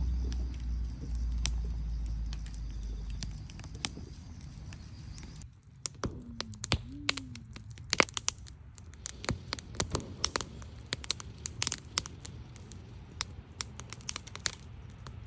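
Wood fire crackling, with many sharp snaps and pops of burning wood. A low rumble fills the first few seconds; after a brief dip about five seconds in, the pops come thick and irregular.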